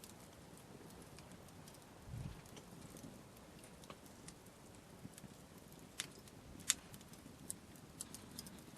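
Wood campfire crackling softly, with irregular sharp pops scattered through it, the loudest one near the end. One soft low thump comes about two seconds in.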